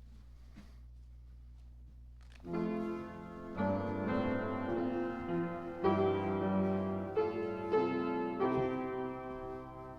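Faint steady low hum of room tone. About two and a half seconds in, slow keyboard music begins: sustained chords that change every second or so.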